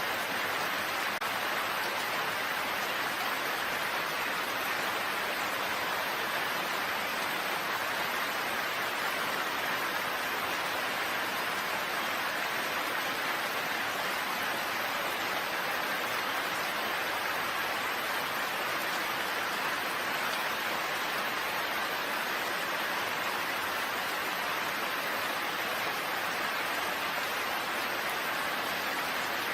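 Rain falling steadily: an even hiss that neither builds nor fades, with no single drops standing out.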